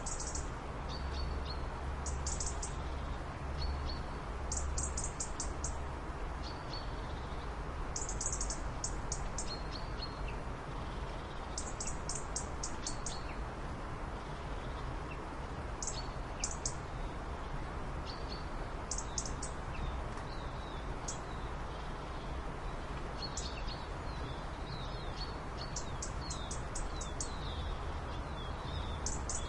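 Small birds chirping: short, high, rapid trills repeated every second or two, with quicker chirps near the end, over a steady background hiss and low rumble.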